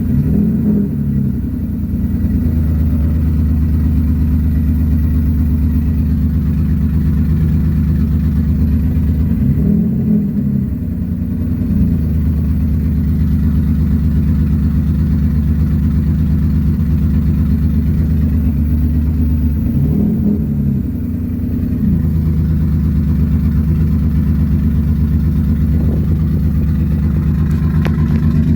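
Turbocharged Infiniti G35's V6 engine idling with its exhaust downpipe not yet completed, the idle wavering briefly about every ten seconds.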